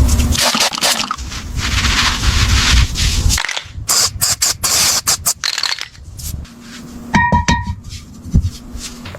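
Hand-tool work on a small object: scraping and rubbing, many sharp clicks and knocks, a short hiss about four seconds in, and a brief ringing tap near the end.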